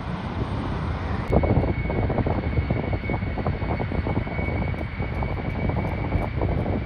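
Airliner engines running, with a steady high whine that sets in about a second in, over gusty wind rumble on the microphone.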